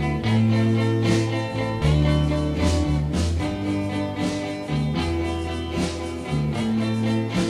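Instrumental break in a 1960 pop song: a band with guitar, bass and drums, with no singing.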